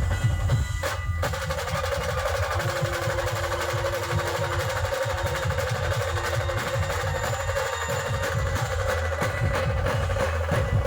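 Live band playing a fast dhol-tasha rhythm: rapid rolling strokes over deep drum beats, with a held tone above them. The playing breaks off briefly about a second in, then carries on.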